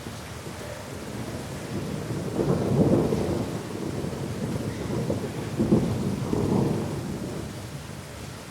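Thunder rumbling over steady rain: a low rumble swells about two seconds in, peaks twice, around three and six seconds in, then dies away under the rain near the end.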